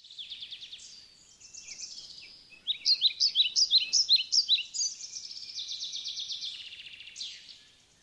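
Birdsong: rapid trills and chirps, with a louder run of quick, repeated sweeping notes from about three to five seconds in, stopping shortly before the end.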